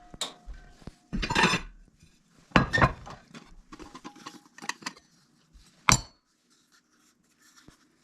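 Metal utensils clanking and scraping against a cooking pot while food is dished out of it: about half a dozen separate clanks in the first six seconds.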